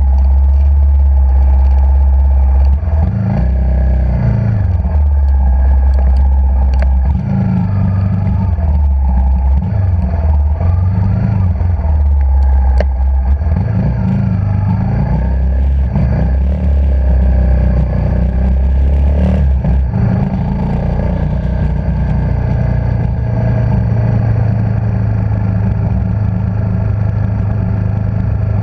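Motorcycle engine running loud and close, its pitch rising and falling again and again as the revs go up and down, then holding steadier near the end.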